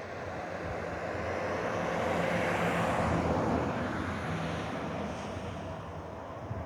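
Engine noise of something passing by: a rushing sound over a low steady hum, swelling to a peak about three seconds in and then fading.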